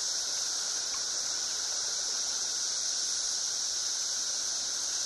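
Dense cicada chorus: a steady, unbroken high-pitched drone.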